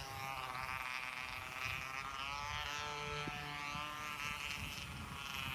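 Model aeroplane's motor and propeller buzzing, a steady whine whose pitch wavers slightly as the plane flies, with wind buffeting the microphone underneath.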